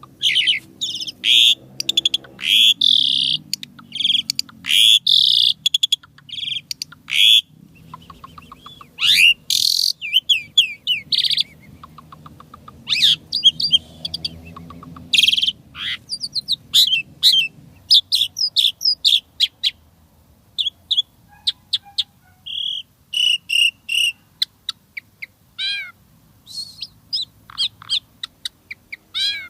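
Asian pied starling (jalak suren) singing a long, varied song of short chattering notes and rising and falling whistles, delivered in quick phrases with brief pauses between them.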